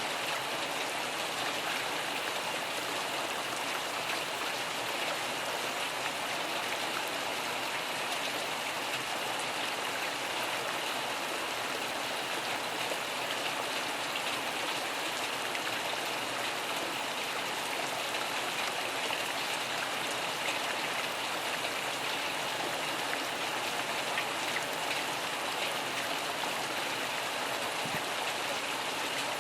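Steady rain: an even hiss of many drops that does not change, with no thunder.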